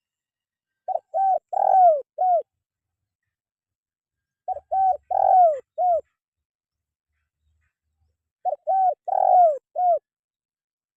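Spotted dove (terkukur) cooing: the same phrase three times, about four seconds apart. Each phrase has four low, falling coos, and the third is the longest and loudest.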